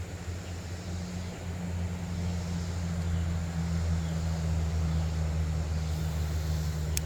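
Steady low engine drone, a deep hum that grows a little louder, with a sharp click near the end.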